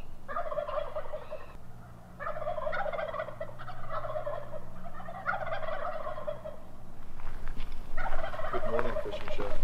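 Turkeys gobbling, several rattling gobbles in a row with short pauses between them.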